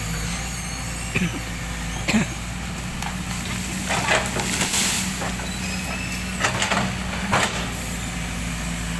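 Heavy machine's engine running steadily while an oil palm trunk is pushed over, with sharp cracks and splintering of the wood several times, loudest around the middle.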